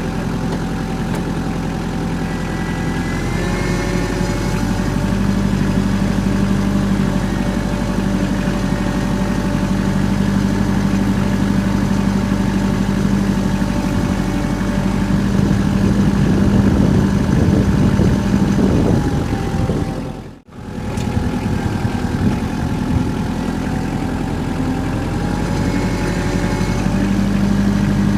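An engine running steadily at a fast idle. Its speed steps up about three seconds in, drops back at about two-thirds of the way through, and picks up again near the end. The sound cuts out briefly about twenty seconds in.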